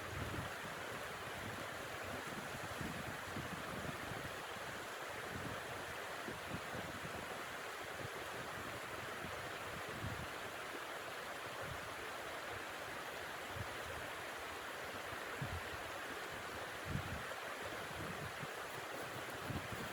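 Blizzard wind blowing in a steady rushing hiss, with irregular low gusts buffeting the microphone.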